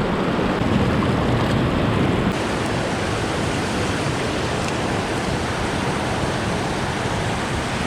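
Rushing river water: a steady wash of noise.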